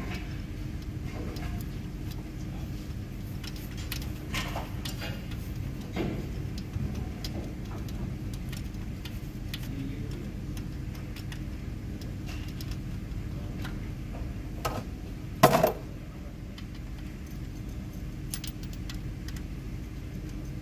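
Metal tools and engine parts clinking sporadically during valve-train work, with one loud metallic clank about 15 seconds in, over a steady low hum.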